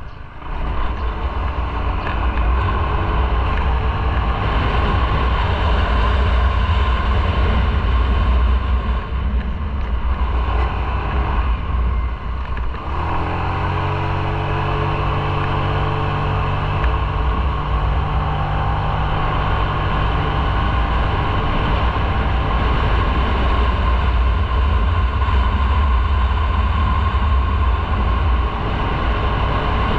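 Motorcycle engine running while riding, with heavy wind rumble on the microphone. About halfway through, the engine note dips briefly, then rises as it picks up speed again.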